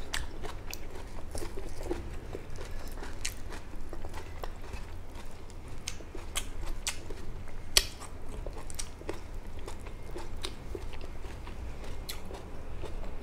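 Close-up mouth sounds of a person chewing and biting food, with many small scattered clicks and one sharper click about eight seconds in, over a faint low hum.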